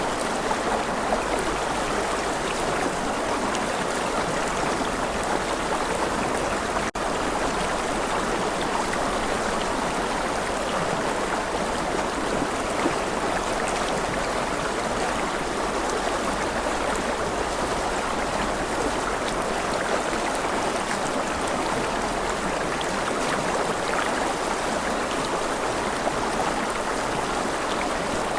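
Steady running water of a stream, an even rushing and babbling with no change in level, broken only by a momentary dip about seven seconds in.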